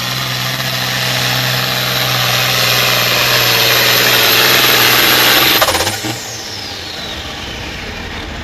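Diesel pulling tractor running at full throttle under load, growing louder with a high steady whistle, then throttled back sharply about five and a half seconds in, a high whine falling away in pitch as the engine drops to a lower, steady run.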